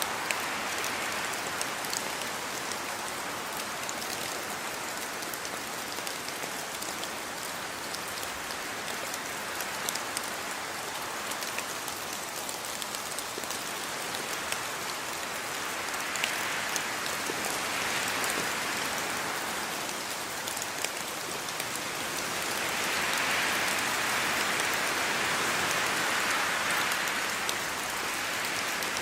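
Steady rainfall: a continuous hiss of raindrops hitting surfaces, with fine individual drop ticks, growing a little heavier about two-thirds of the way through.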